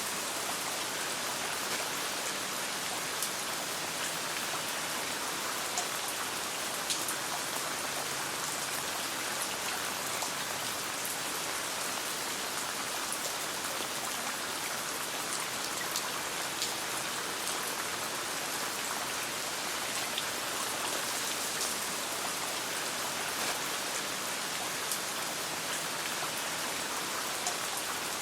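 Steady rain with a campfire crackling, its pops heard as scattered sharp ticks over the even hiss of the rain.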